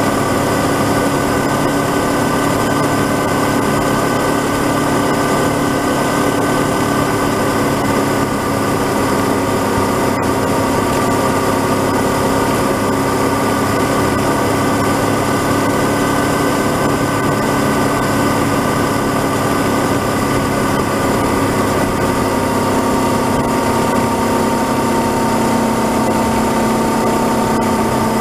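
Honda CB500X's 471 cc parallel-twin engine running steadily at cruising speed on the open road. Its note eases slightly lower about three quarters of the way through.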